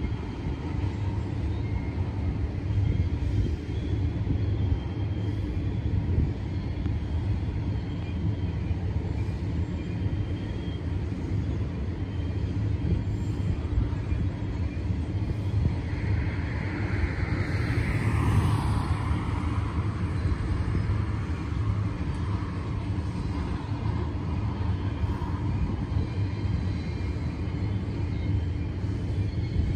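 Distant Norfolk Southern freight train climbing the grade: a steady low rumble of diesel locomotives working and cars rolling. A brief higher hiss swells a little past halfway.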